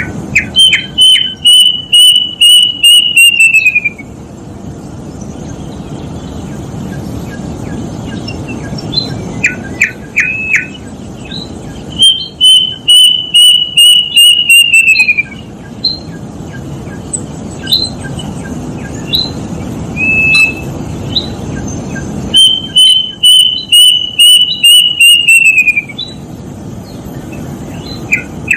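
A kedasih cuckoo singing three times: each song is a run of about nine clear whistled notes, evenly spaced and held level, then dropping in pitch over the last few notes. Short separate chirps come between the songs.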